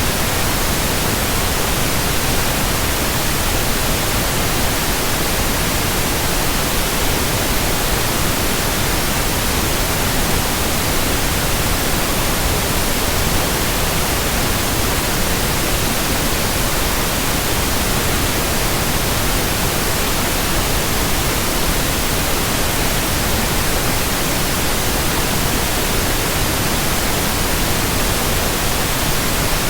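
Steady, unchanging hiss of white noise, spread evenly from deep to very high pitches, with no rhythm or other sound in it.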